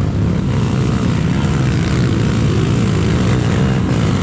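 Off-road vehicle engines running steadily under load on a rough trail, a continuous low drone that wavers slightly in pitch.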